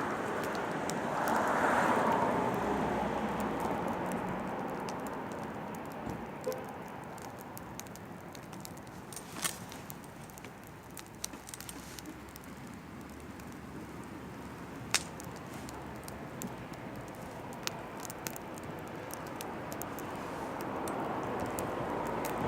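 Oak firewood burning in a campfire, crackling with scattered sharp pops over a steady rushing background noise that swells and fades.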